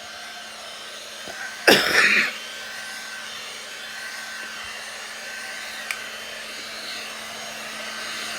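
Handheld 2-in-1 slicker brush pet hair dryer running steadily, a constant hum with a faint airy hiss. About two seconds in, one short loud burst cuts across it.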